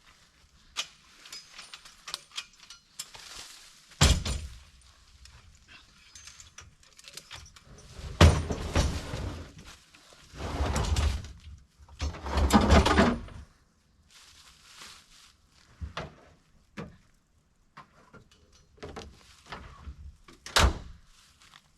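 Handling noise from a deer being loaded onto a truck: a few sharp thuds, about four seconds in, near eight seconds and again near the end, with three stretches of scraping and rustling of about a second and a half each between them.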